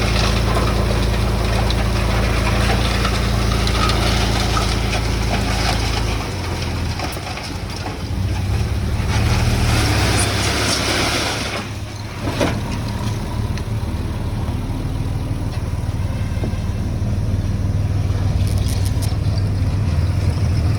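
Diesel engine of heavy earthmoving machinery running steadily, its note changing about six seconds in, with a short knock about halfway through.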